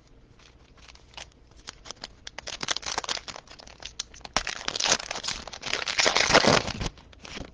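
A foil trading-card pack wrapper being torn open and crinkled by hand: a few light clicks, then about four seconds of dense crackling.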